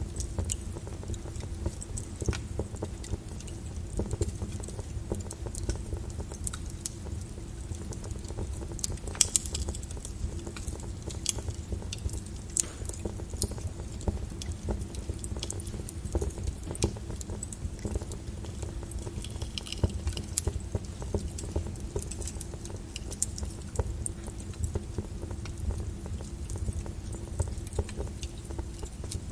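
Crackling wood fire mixed with rain on a window: a steady low rumble and soft rain haze, with frequent irregular sharp pops and crackles.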